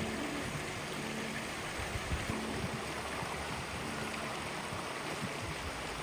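Steady, even rushing of water with no clear drips or strokes.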